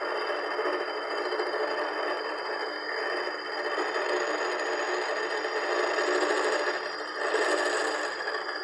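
Air compressor running with a steady, fast mechanical rattle.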